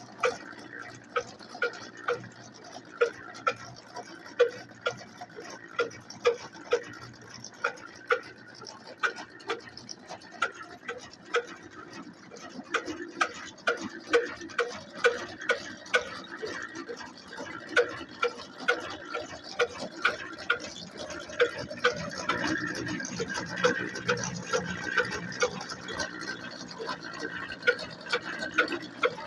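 Slow-running single-cylinder 'black engine' diesel powering an atta chakki flour mill, with an even beat about every 0.7 seconds over a steady mechanical drone. The running grows louder and fuller about three-quarters of the way through.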